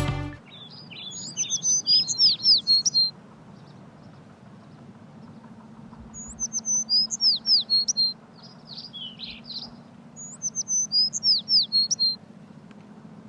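A songbird singing three phrases of quick, high chirping notes, each about two to three seconds long with a few seconds of pause between them.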